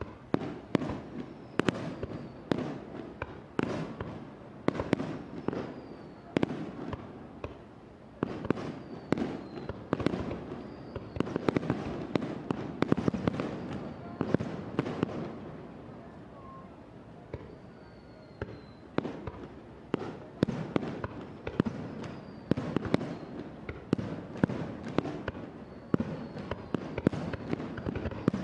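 Aerial fireworks shells bursting in quick succession, each a sharp bang followed by crackle, with a few faint whistles. The bursts thin out briefly around the middle.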